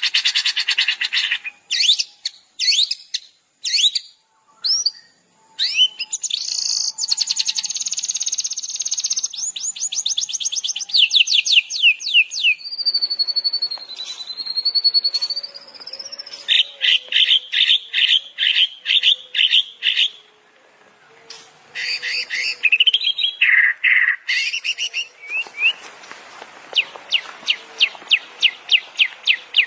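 Songbird masteran recording: a medley of songbirds singing in fast series of repeated high chirps and trills, with one long wavering whistle a little before halfway and a short lull about two-thirds through.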